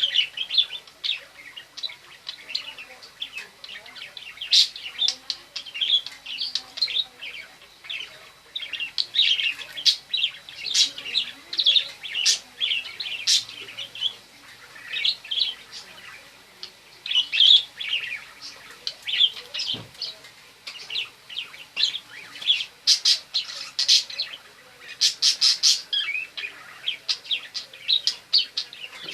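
Budgerigar chattering and warbling nonstop: a busy run of quick chirps and squeaky notes, with spells of rapid notes about two thirds of the way in.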